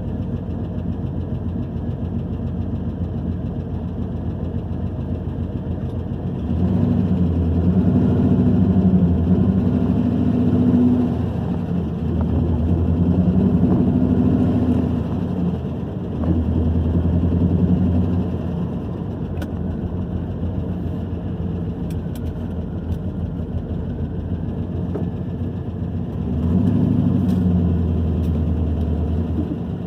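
2001 Camaro SS's LS1 V8 running while being driven, its exhaust sounding crazy, growing louder under throttle four times, at about six, twelve, sixteen and twenty-six seconds in. The engine has a new cam and heads and is not running right; the owner fears it is badly hurt.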